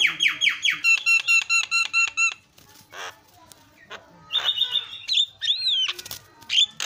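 Javan myna (jalak kebo) singing: a fast run of repeated ringing notes, about eight a second, lasting about two seconds. Then come scattered harsh squawks and a whistled note that rises and falls.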